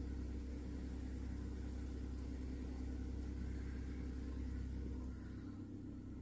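2010 Kia Forte's engine idling steadily, heard from inside the car; its low hum eases a little about five seconds in.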